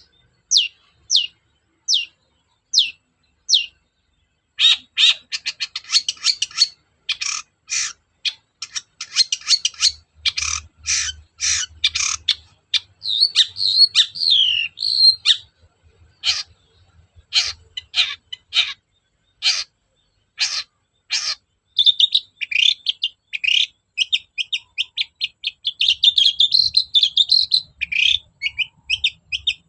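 Long-tailed shrike (cendet) singing. It opens with a few single down-slurred notes about one a second, then breaks into long runs of fast, harsh, scratchy chattering and warbling with short breaks.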